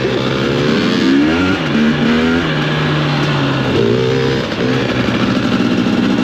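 2021 KTM 250 XC-W two-stroke dirt bike engine running, its revs rising and falling as the throttle is opened and eased off, over a steady low engine note.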